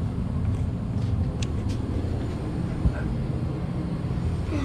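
Indoor blower of a central air conditioning system running: a steady low hum and rush of air, with a short knock about three seconds in.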